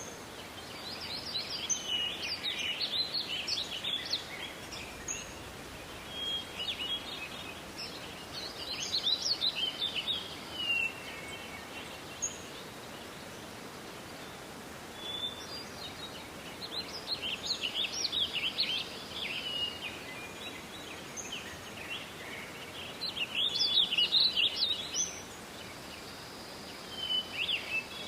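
Songbirds singing rapid twittering phrases in bouts, about every six or seven seconds, over a steady faint hiss of forest background.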